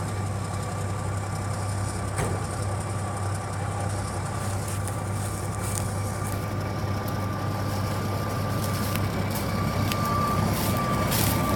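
1978 Mack semi-tractor's diesel engine running steadily at idle, with a thin steady high whine over the low engine hum; it grows slightly louder near the end.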